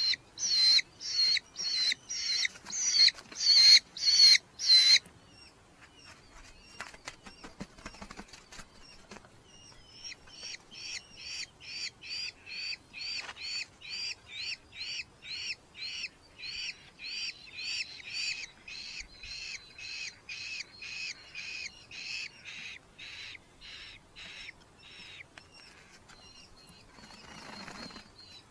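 Red-footed falcons calling in a fast series of shrill repeated notes, about two a second: loud for the first five seconds, then, after a short pause, a fainter run that tapers off near the end.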